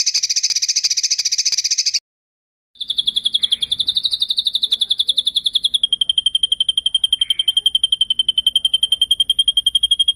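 A recorded songbird's trills: first a buzzy, rapid trill of about two seconds. After a short pause comes a long, fast, rolling trill held on one high note, which steps slightly lower about halfway through. It is the kind of sharp rolling "tembakan" phrase used in masteran training tracks.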